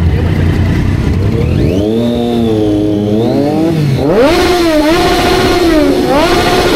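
Sport motorcycle engine being revved: the pitch climbs about a second and a half in and holds, drops, then jumps higher about four seconds in and holds with a brief dip, falling away at the end.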